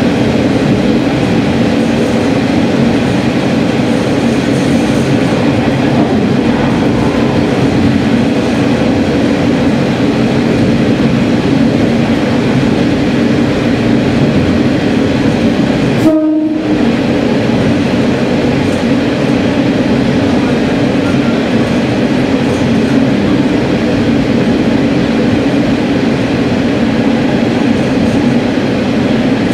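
Sanriku Railway diesel railcar running through a tunnel, heard inside the cabin: a loud, steady drone of engine and wheels on rail. The sound briefly cuts out about halfway through.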